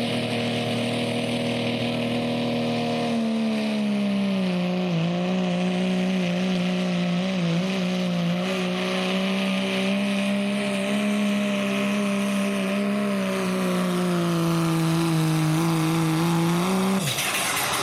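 Diesel pickup truck engine at full throttle, pulling a weight sled under heavy load. The pitch sags after about three seconds as the load builds, holds steady at full throttle, then drops sharply as it lets off about a second before the end.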